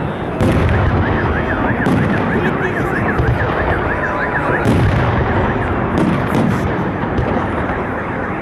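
Festive fireworks salute shells bursting in a dense run of bangs. A car alarm wails over them, its tone sweeping quickly up and down from about a second in until roughly halfway through.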